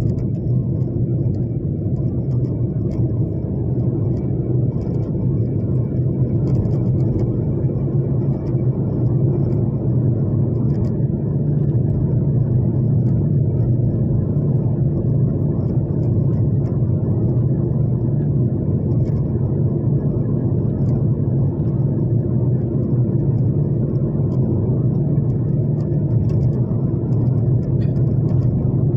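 Steady low drone of a moving vehicle, engine and travel rumble holding an even pitch, with faint scattered ticks above it.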